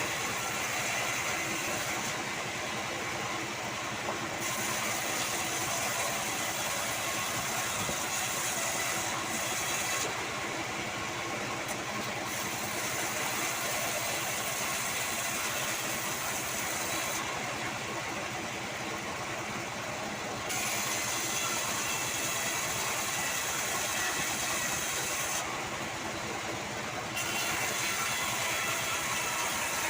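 Band sawmill running while sengon logs are sawn: a steady machine noise with a high hiss that drops away for a couple of seconds at a time, four times, then returns.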